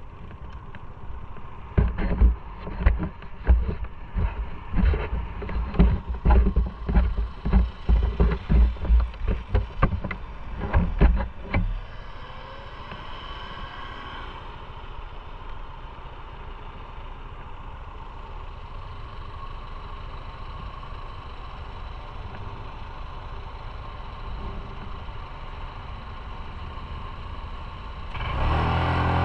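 Motorcycle riding noise heard from the bike. Irregular low gusts and thumps, like wind buffeting the microphone, last for about the first twelve seconds. The rest is a steadier, quieter run of engine and road noise, which gets louder again near the end.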